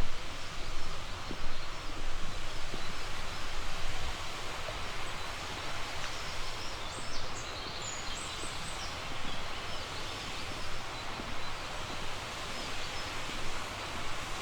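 Steady rush of a flowing river, with a brief run of high bird chirps about seven seconds in.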